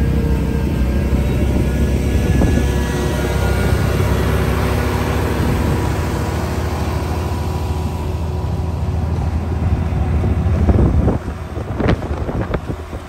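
Engine of snow-clearing machinery running steadily with wind on the microphone. About eleven seconds in the rumble drops away and a few sharp knocks follow.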